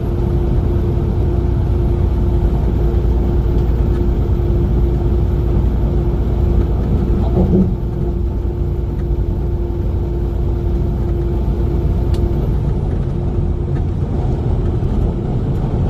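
Steady low rumble of a semi-truck's engine and road noise heard from inside the cab while driving, with a constant hum running under it.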